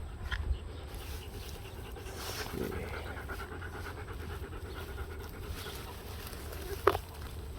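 Dog panting in a steady rhythm, with one short sharp sound near the end.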